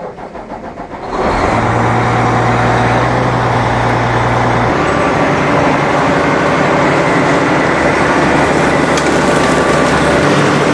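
A heavy vehicle engine running loudly and steadily. It comes in about a second in, and its low hum shifts in pitch a few seconds later.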